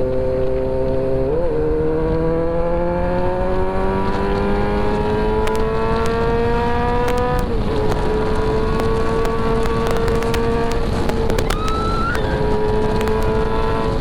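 Kawasaki Z900's inline-four engine pulling hard through the gears under a full-throttle run: the engine note drops at a shift about a second and a half in, climbs steadily for several seconds, drops at another shift and then holds nearly steady. Wind rushes over the microphone throughout.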